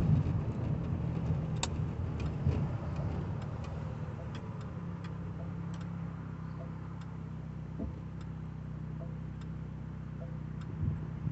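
1985 Cadillac Cimarron's engine heard from inside the cabin, running with road noise as the car slows in the first couple of seconds, then idling steadily at a stop. Faint light ticks sound every half second or so.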